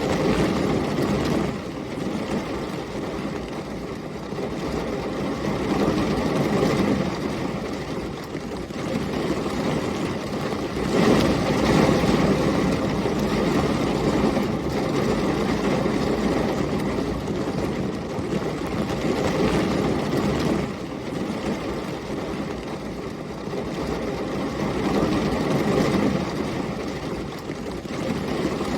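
Heavy rain with storm wind, a steady rushing noise that swells and eases every few seconds with low rumbles, loudest about eleven seconds in.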